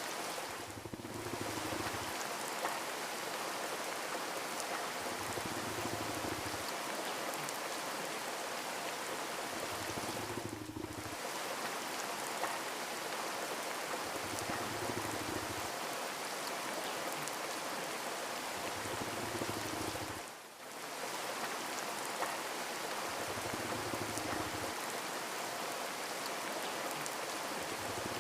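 Steady rain, an even hiss with pattering drops. A faint low hum swells in and out about every four and a half seconds, and the rain dips briefly in level twice.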